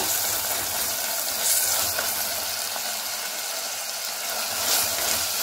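Onions, tomatoes and ginger-garlic paste sizzling steadily in hot oil in a stainless steel pressure cooker while a wooden spoon stirs them.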